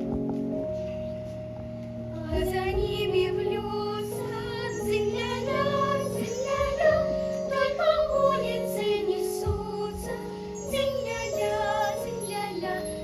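Song with an instrumental backing track; high singing voices, likely children's, come in about two seconds in and carry the melody.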